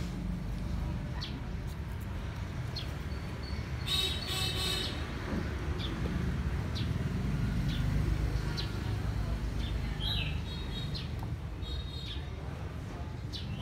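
Outdoor ambience: small birds chirping now and then, with a busier burst of chirps about four seconds in, over a steady low rumble.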